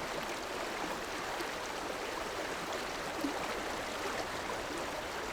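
A river's water running steadily over rocks, an even rushing with small splashes and gurgles through it.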